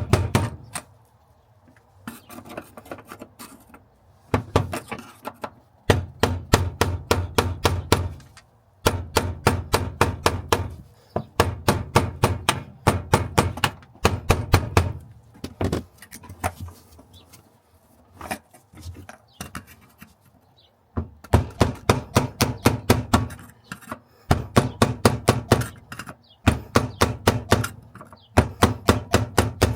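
A tool working on fasteners: bursts of rapid, evenly spaced clicking over a low hum, each one to four seconds long, with short pauses between them.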